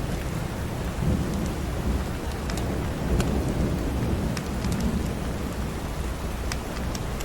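Steady rain with a deep low rumble, mixed with the scattered sharp pops of a crackling wood fire.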